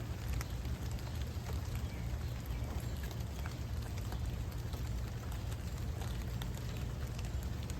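Steady rain with many small drops ticking and pattering close by, over a low rumble.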